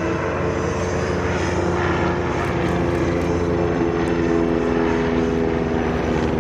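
Piston engine of a propeller-driven First World War-type aircraft running steadily in flight.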